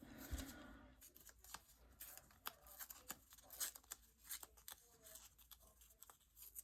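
Faint handling of craft papers: light rustles and scattered small clicks as paper pieces are moved and laid onto a notebook page.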